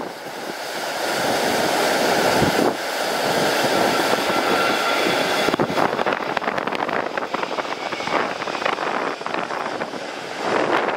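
Jet airliner passing low on landing approach: its engines swell to a steady whine over the first couple of seconds, then fade after about five and a half seconds. Strong gusty wind buffets the microphone throughout.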